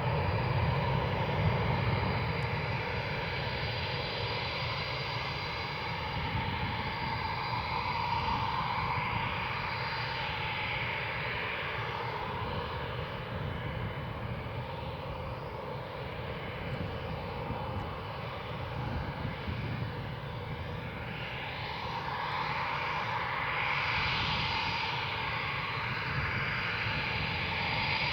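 Eurofighter Typhoon's twin Eurojet EJ200 turbofans running at taxi power: steady jet noise whose tone slowly sweeps up and down as the jet moves.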